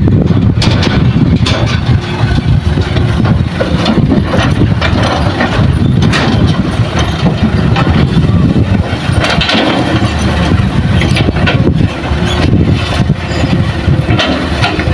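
Heavy diesel engines of an excavator and dump truck running loudly under load, with frequent short knocks and rattles over the rumble.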